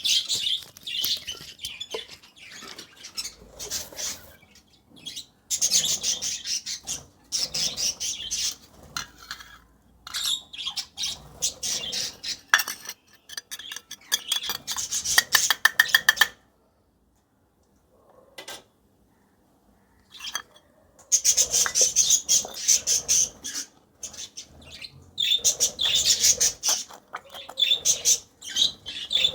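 Lovebird chick giving rapid, high-pitched chirping begging calls in repeated bursts while being hand-fed formula from a dropper; the calls stop for about four seconds past the middle, then resume.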